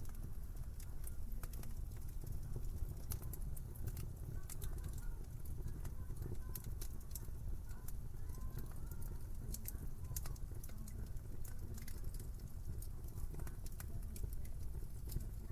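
Wood fire in a fireplace crackling, with many small sharp pops at irregular intervals over a steady low rumble of the burning fire.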